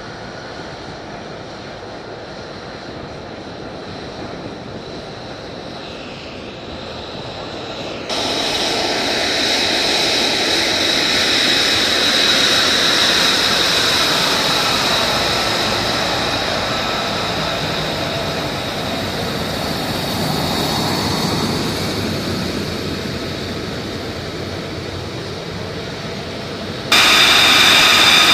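Military jet aircraft engines running: a steady rush with a high whine. It jumps louder suddenly about 8 seconds in, swells, then slowly eases off, and jumps louder again just before the end.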